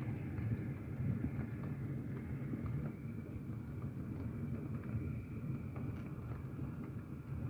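Heavy thunderstorm rain heard through a closed window: a steady, muffled low rushing with scattered faint ticks of drops striking.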